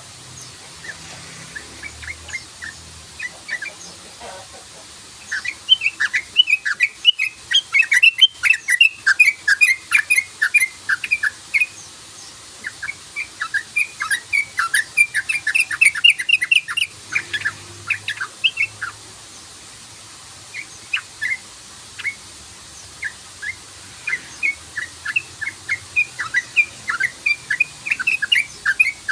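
Yellow-vented bulbul (trucukan) singing its rapid chattering 'cruk-cruk' song: quick runs of short, sharp notes in several bouts, with brief pauses between them.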